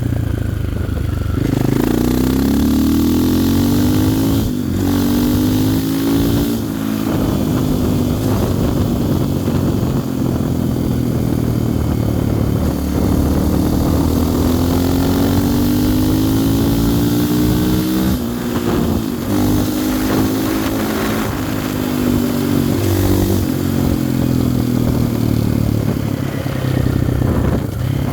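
GasGas ES500 enduro motorcycle's 510 cc single-cylinder four-stroke engine pulling hard under acceleration. The engine pitch rises in repeated sweeps and drops back at each gear change.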